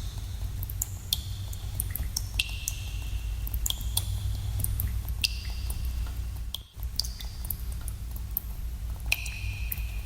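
Water drops dripping into pools in a cave, many irregular drips, each a short high plink, over a steady low rumble. The sound dips out briefly about two-thirds of the way through.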